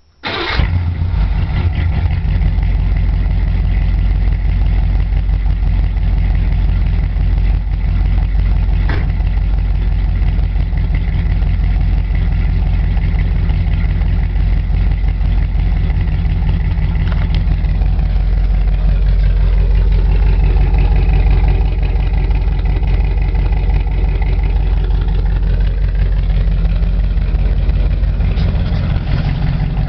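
A 1986 Chevy K10's 350 cubic-inch V8, with headers and glasspacks into dual exhaust, fires up at once and settles into a loud, deep idle. About two-thirds of the way in, the engine speed swells a little and then settles back.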